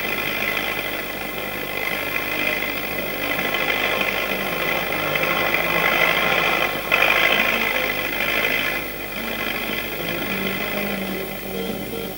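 Logging skidder tractor's engine running steadily with some rattle. It grows louder about seven seconds in and drops back about two seconds later.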